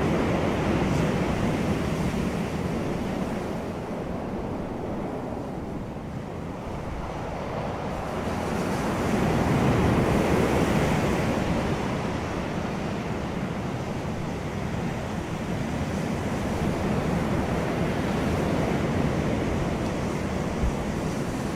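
Wind blowing across the microphone, a steady rush that swells and eases in slow surges several seconds apart.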